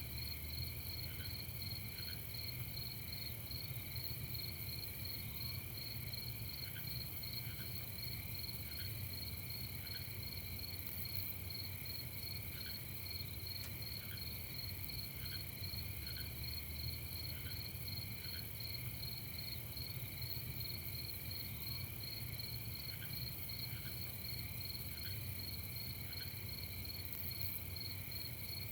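Night chorus of crickets, a steady, finely pulsing trill, with a lower short note repeating about once a second and a faint low rumble underneath.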